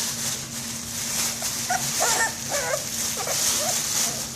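Puppies whimpering and yipping: a run of short, squeaky calls that bend in pitch, bunched in the middle, over a steady hiss.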